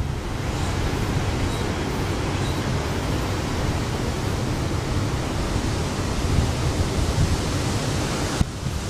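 Steady rushing of strong wind, an even hiss with no distinct events.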